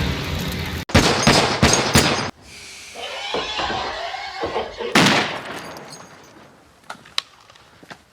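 Film-soundtrack gunfire: a steady rumble cut off abruptly, then a rapid burst of shots lasting about a second and a half, and a single loud shot with a trailing echo about five seconds in. A few faint clicks follow near the end.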